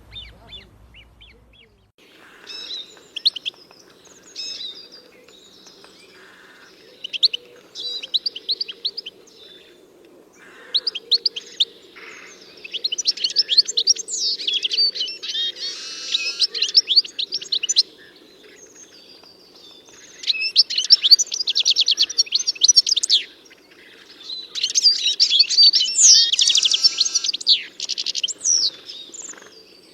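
A songbird singing repeated phrases of fast trills and chirps, each lasting a few seconds with short pauses between, starting about two seconds in, over a steady low background noise.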